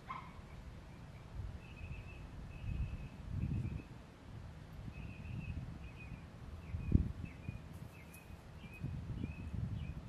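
Birds calling in short repeated chirps and quick slurred notes over wind rumbling on the microphone in gusts, with one brief low thump of wind about seven seconds in.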